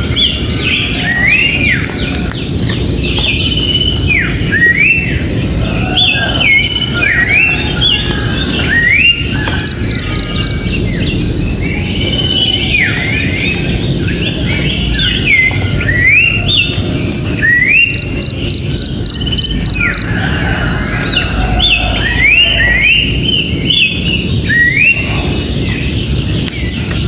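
Wild birds singing: many short whistled notes, each sliding up or down, repeated throughout. A quick run of short high notes comes twice, about ten seconds in and again near twenty seconds. A steady high-pitched drone runs underneath.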